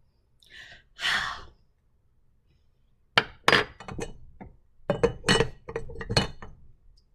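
Objects being handled: two short hissing bursts, then a quick run of hard clinks and knocks.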